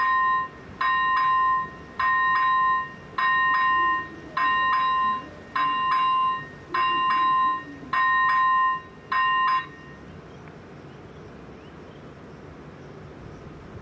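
Czech level crossing's electronic warning bell ringing, a two-pitched tone repeated about once every 1.2 seconds. It stops about ten seconds in as the crossing warning switches off.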